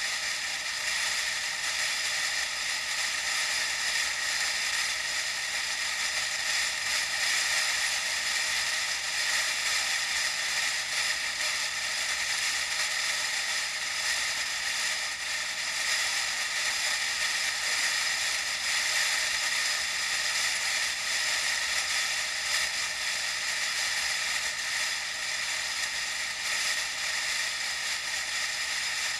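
Steady wind and road noise from a moving bicycle, picked up by an action camera: a constant high hiss with little low end.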